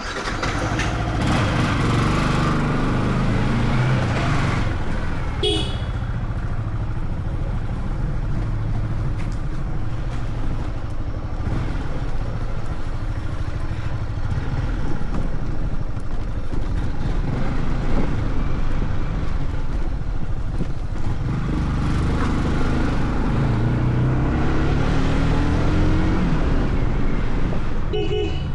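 Yamaha R15 M motorcycle's single-cylinder engine running on the road, rising in pitch as it accelerates through the gears, under steady wind and road noise. A horn sounds briefly about five seconds in and again near the end.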